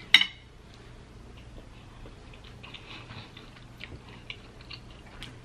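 Close-miked chewing of noodles and seafood: small wet mouth clicks and smacks. There is one sharp, loud click right at the start.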